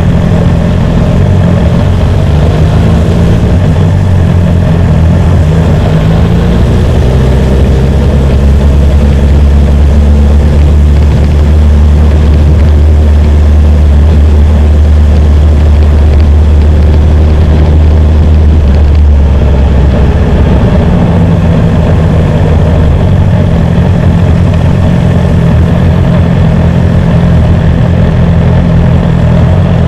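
BMW S1000R's inline-four engine running steadily at low revs. Its note drops lower for a stretch in the middle, then rises back.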